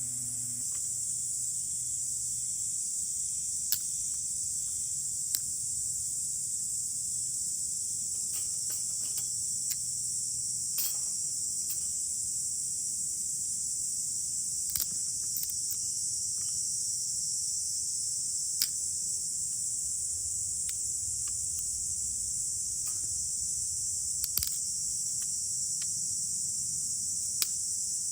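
Steady high-pitched chorus of insects, with sharp crackles from a wood campfire every few seconds.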